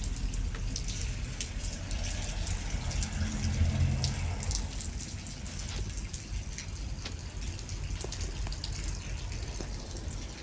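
Rain falling, with many separate drops ticking sharply, over a steady low rumble.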